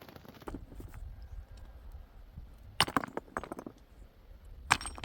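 Sharp clicks and knocks in quick clusters, one about three seconds in and a short, louder one near the end, over a low rumble.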